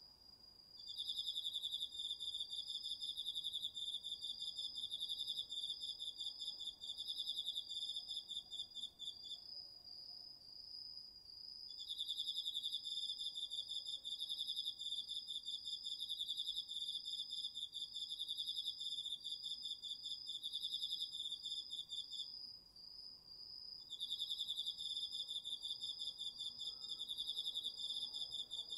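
Crickets and other autumn insects singing together: one steady, fast-pulsed high trill runs throughout, while a louder, slightly lower trill comes in three long bouts of about eight to ten seconds with pauses of about two seconds between.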